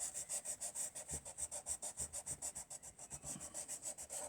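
Rubber eraser scrubbing back and forth on drawing paper in quick, even strokes, about nine a second, taking out pencil guide lines.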